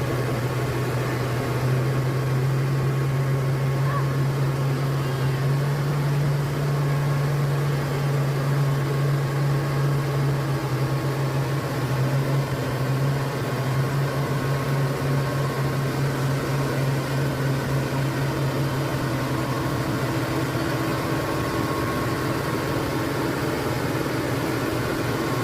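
Heavy diesel truck engine running steadily under load, a loud, even drone.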